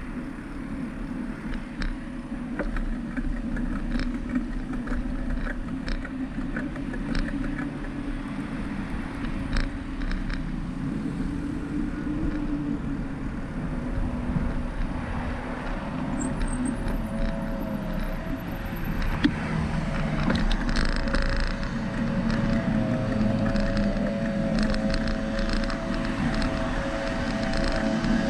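Steady street noise heard from a moving bicycle: wind and road rumble with car traffic, and a light tick now and then.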